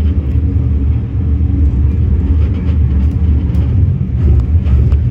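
Steady low rumble of a moving vehicle, with a few faint clicks and rattles over it.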